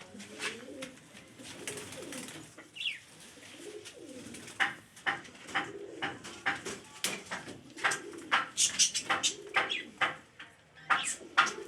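Domestic pigeons cooing in low, wavering calls over many sharp taps and clicks, with a short falling chirp about three seconds in.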